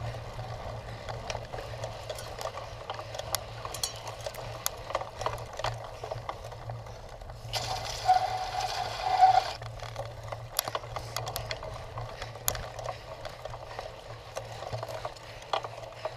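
Bicycle rattling and clicking over rough cyclocross ground, steady hum underneath. About eight seconds in comes a louder two-second rush of noise with a steady squeal in it.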